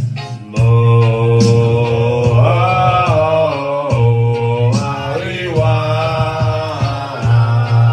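Live reggae band with a strong, steady bass line under a male voice singing long held, wavering notes without words.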